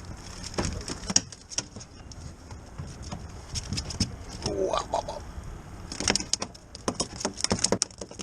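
Irregular clicks, knocks and rattles of handling noise, thickest about a second in and again from about six seconds on, with a short vocal sound about halfway.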